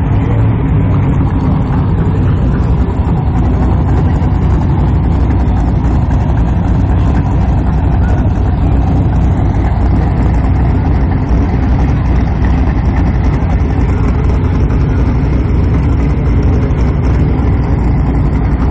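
Chevrolet Monte Carlo SS drag car's engine running at a loud, steady low-speed rumble as the car creeps slowly forward.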